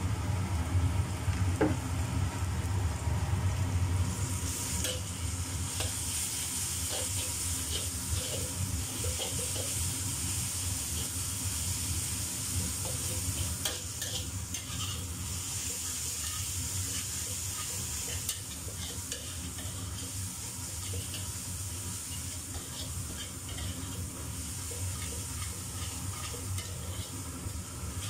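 Sliced shallots and freshly ground spice paste sizzling in hot oil in a wok. A metal spatula scrapes and stirs against the pan. There is a low hum in the first few seconds.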